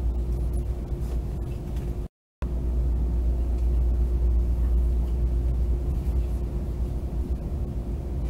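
Steady low rumble of a passenger train running, heard inside the carriage, with a constant hum over it. The sound cuts out completely for a moment about two seconds in.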